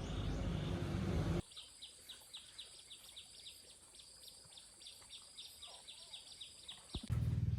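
Rhythmic high chirping, about four chirps a second, over a steady high insect drone in quiet surroundings. A low rumble cuts off about a second and a half in, and a loud motor vehicle engine comes in suddenly near the end.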